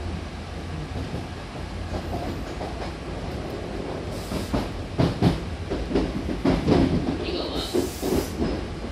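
Hankyu train car running with a steady low rumble, its wheels knocking irregularly over rail joints in the second half. A short high hiss with a thin tone comes about a second before the end.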